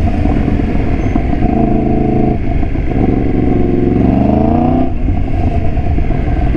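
Yamaha FZ-10 motorcycle's inline-four engine running under the rider, with wind rushing over the microphone; the engine pitch climbs steadily about three seconds in as the bike accelerates, then drops away near five seconds.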